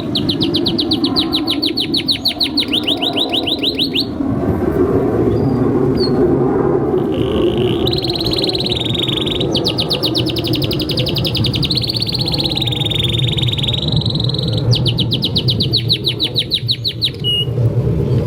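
Domestic canary singing long phrases of rapid trills, with a pause of a few seconds after the first phrase, over a steady low background rumble.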